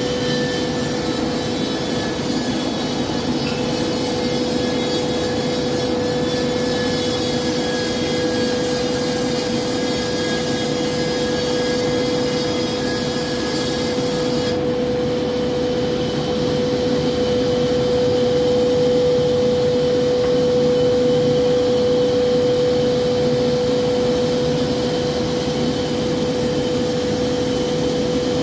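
Woodworking machinery running steadily in a pallet workshop, with a constant hum and a noisy rumble under it. A higher whine above it cuts off suddenly about halfway through.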